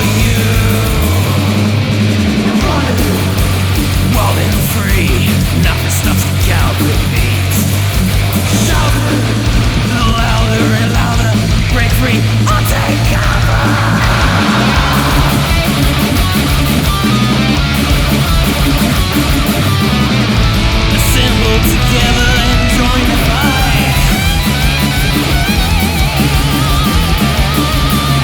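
Heavy metal band playing: distorted electric guitars over bass and drums, with a guitar line bending and wavering in pitch.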